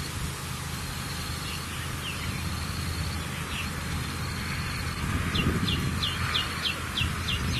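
Bird chirping: a few scattered short falling chirps, then from a little past the middle a quick run of short falling chirps, about four a second, over a steady low hum.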